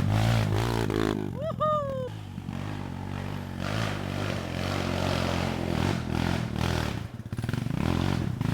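Dirt bike engine running unevenly: its note is strong at first, falls off after about a second and picks up again near the end. A short voice call comes about a second in.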